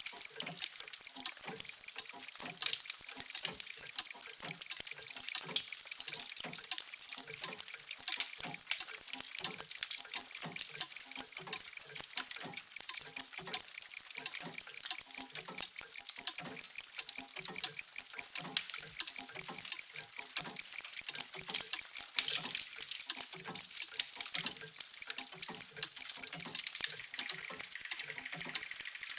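Many mechanical clocks ticking at once: a steady, dense stream of overlapping ticks with no single beat standing out.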